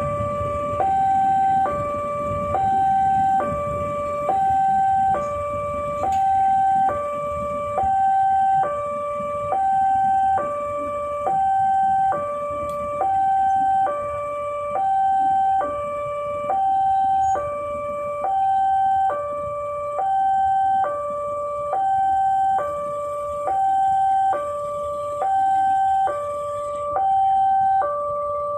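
Railway level-crossing warning alarm sounding continuously: an electronic two-tone signal alternating evenly between a higher and a lower tone, about one tone a second, at a steady pitch, the signal that a train is approaching and the crossing is closed. Low traffic rumble underneath for the first few seconds.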